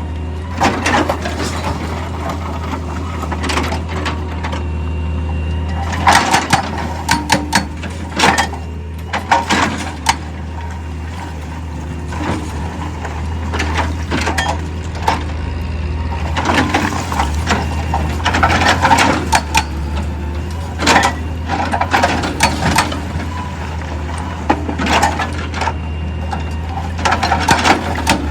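Heavy quarry machinery running with a steady low drone, overlaid by frequent irregular knocks and clatters of rock being broken and moved.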